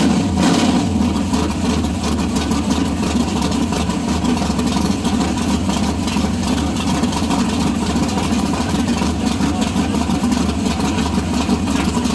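A car engine running steadily, with a low, even rumble.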